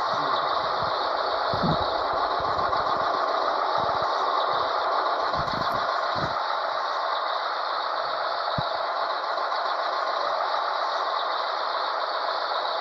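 Scania 112H truck on the move: a steady rush of road and wind noise with no clear engine note, broken by a few brief low thumps.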